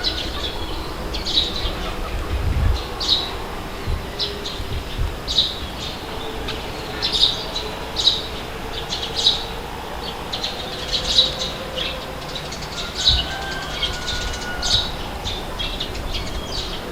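Small birds chirping, short high calls coming about once a second, over a steady low rumble of wind.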